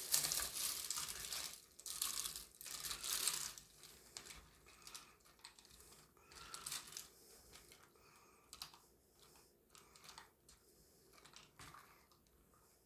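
A spoon stirring egg noodles in a pot of boiling chicken stock: swishing and scraping, strongest over the first few seconds, then fainter clicks and scrapes.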